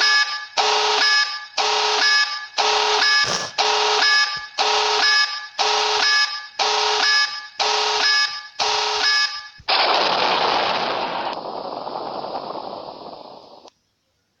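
Video-game tactical nuke sound effect: a pitched warning alarm beeping about once a second, about ten times, then a loud rushing blast of noise that fades away and cuts off.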